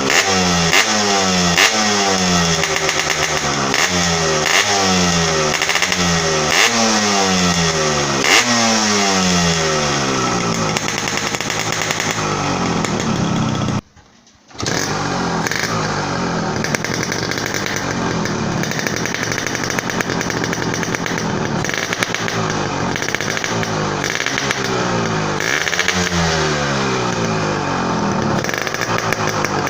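Yamaha RX-S two-stroke motorcycle exhaust fitted with a homemade baffle insert. The throttle is blipped about once a second for the first ten seconds, each blip rising in pitch, and then the engine settles to a steadier run with one more rev near the end. The sound cuts out briefly around the middle.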